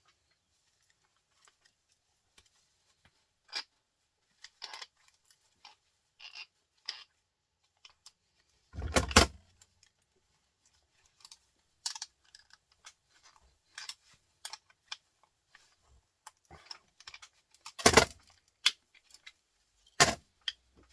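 Light metallic clicks and clinks from the metal parts of a printer motor being dismantled by hand, with three louder knocks, the first about nine seconds in and two near the end.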